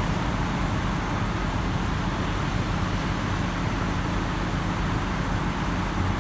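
Diesel engines of heavy equipment (excavators and loaders) running steadily, a constant low engine drone with broad noise over it.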